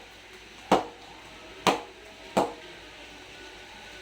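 The blade of a size 5 cricket bat tapped in a ping test: three sharp knocks, each ringing briefly, about a second apart.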